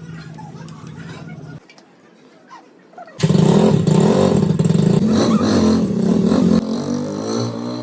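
Motorcycle engine running. It drops away briefly, then comes back much louder about three seconds in, and its pitch drops a little near the end.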